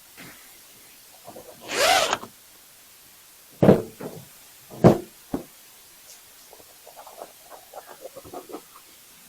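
Gear and tools being handled on a workbench: a scrape, then three sharp knocks a second or so apart, then a run of light clicks and rattles.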